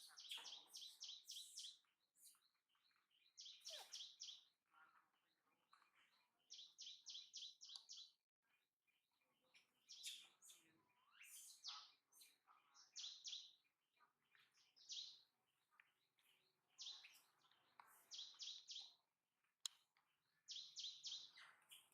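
High-pitched animal calls: bouts of short, rapid chirping notes, about five or six a second, repeated every couple of seconds, with a few sliding calls between them.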